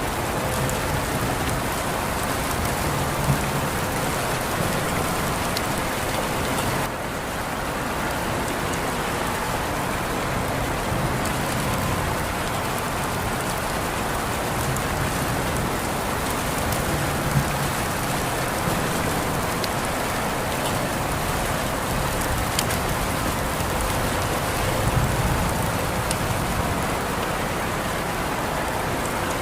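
Steady rain falling on surfaces, an even hiss with scattered sharp drop ticks and a low rumble swelling now and then.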